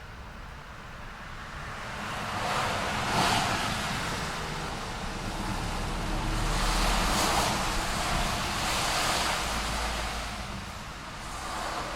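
Road traffic: vehicles passing one after another, each a rushing swell of engine and tyre noise that builds and fades, about three passes, with a lull near the end.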